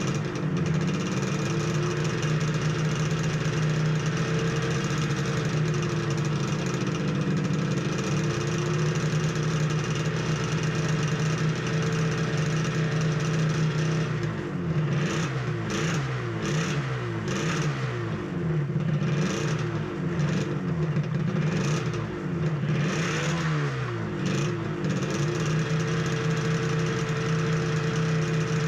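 Suzuki RG250Γ's two-stroke parallel-twin engine running steadily, with the revs rising and falling repeatedly for about ten seconds in the middle before it settles back to a steady note.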